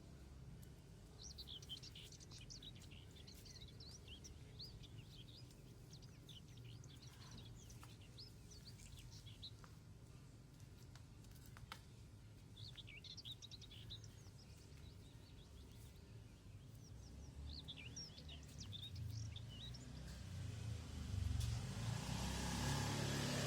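Eurasian tree sparrow chirping in four spells of rapid chirps a few seconds apart, over a low rumble that grows louder near the end.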